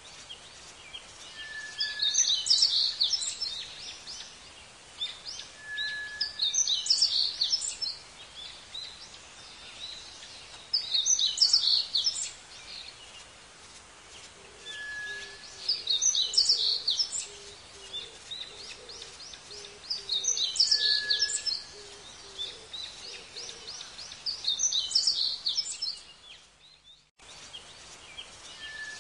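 A songbird singing the same short phrase over and over, about every four to five seconds: one clear note followed by a quick jumble of high notes, over steady outdoor background noise. The sound drops out briefly near the end.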